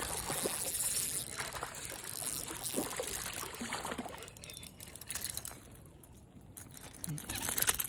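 Irregular water splashing and trickling from a hooked smallmouth bass being fought at the surface, heaviest at the start, dying down, then picking up again near the end.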